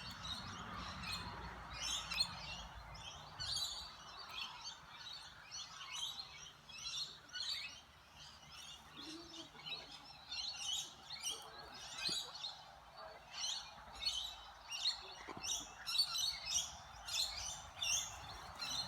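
Many birds chirping and calling at once: a continuous run of short, high, shrill calls overlapping one another.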